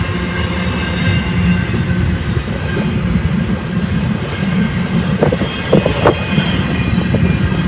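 BNSF freight train rolling past: a steady rumble of wheels on rail, with thin high-pitched wheel squeal and a few clanks a little after five seconds in.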